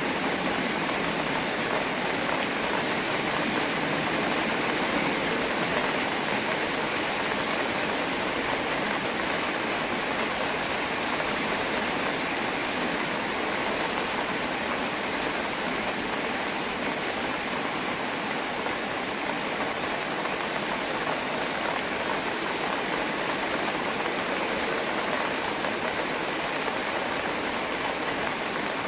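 Steady rain falling, an even dense hiss that neither starts nor stops.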